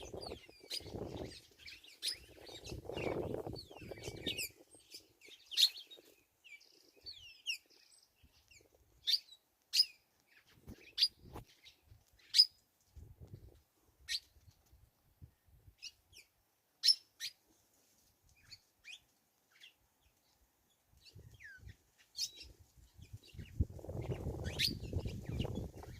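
A small bird chirping in short, sharp, high calls, some sweeping quickly in pitch, scattered irregularly and spaced out in the middle. A low rumbling noise lies under the calls near the start and again near the end.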